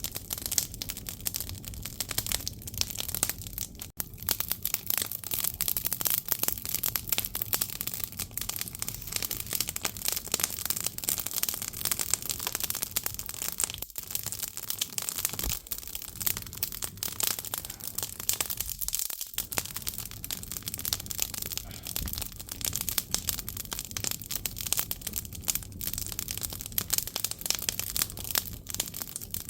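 Firewood burning in an agungi, a traditional Korean stoke-hole fireplace: dense, irregular crackling of the logs with many small snaps over a steady hiss.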